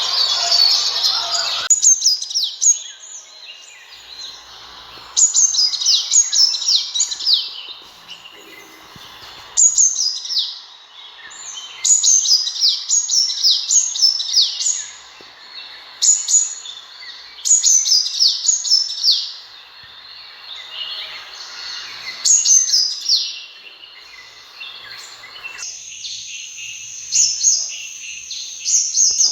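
Sunbird calling: bouts of quick, high-pitched notes, each note falling in pitch, repeated every few seconds. A steady high tone joins in the background near the end.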